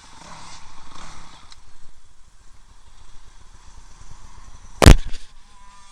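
Faint dirt-bike engine sound, unsteady and rising and falling. A single sharp, very loud knock comes near the end.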